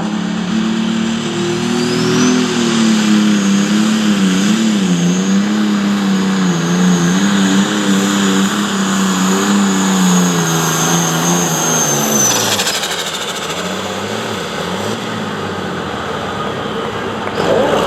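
Pulling tractor's engine running hard through a pull, its pitch wobbling up and down, with a high whine that rises about two seconds in and holds. About twelve seconds in the engine note drops away as the pass ends.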